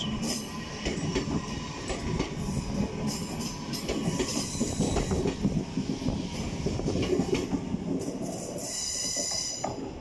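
LNER Azuma high-speed train running along the platform, a continuous rumble of wheels on rail with repeated clacks over the track joints. Near the end a high, thin wheel squeal rises over it.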